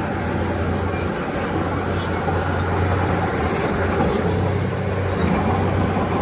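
Diesel engine of heavy earthmoving machinery running steadily, a constant low drone with a dense rumble above it and a few faint high ticks scattered through.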